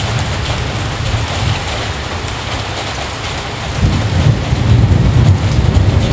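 Heavy rain falling steadily, with a deep low rumble that fades early on and swells back strongly about four seconds in.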